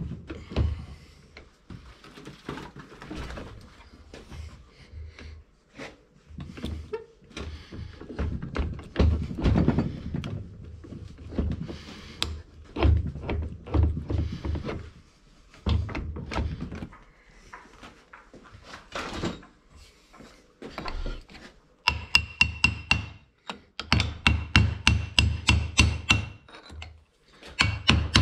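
Hammer blows on a punch, driving the broken split roll pins out of a tractor's gear-shift rods and forks. Irregular metal knocks at first, then, for the last few seconds, quick runs of strikes with a clear ringing note.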